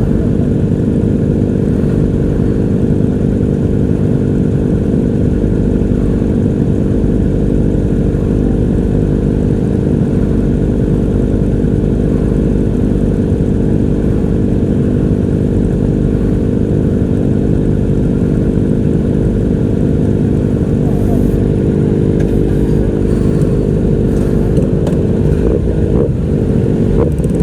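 Honda CBR500R's parallel-twin engine running at steady cruising revs while riding, under heavy wind rumble on the microphone.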